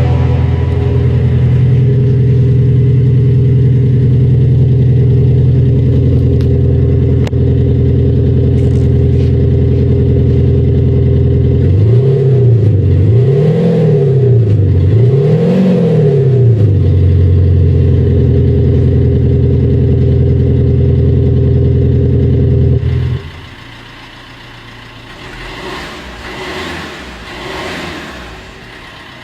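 Fiat Panda's electronic sound booster playing a V8 exhaust note: a steady deep idle with three quick revs about halfway through. Near the end the V8 sound cuts off abruptly, leaving a much quieter engine with a few light revs.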